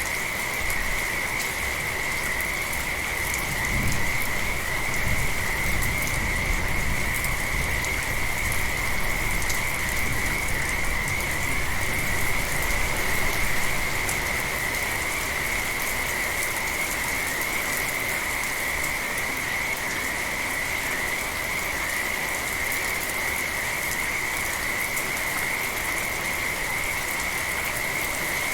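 Steady rain falling, with a continuous, unbroken chorus of frogs calling at one high pitch. A low rumble swells in from about four seconds in and fades out around fourteen seconds.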